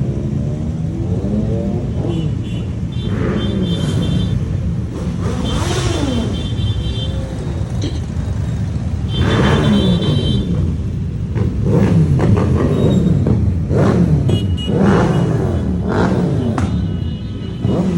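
A stream of motorcycles riding past in a protest ride, engines revving up and falling away one after another in a continuous rumble.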